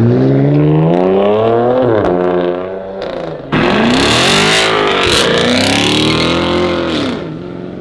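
Car engine revving hard, its pitch climbing for about two seconds and then easing off. About three and a half seconds in, a loud rushing tyre noise cuts in suddenly while the engine rises and falls again and again, typical of a car spinning donuts; both die down near the end.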